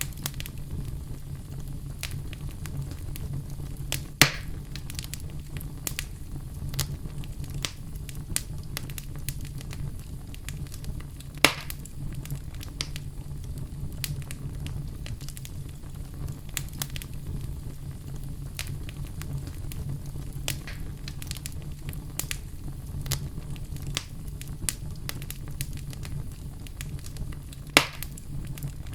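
Wood fire in a fireplace crackling steadily, with a low rumble of the flames under many small irregular pops and three louder snaps.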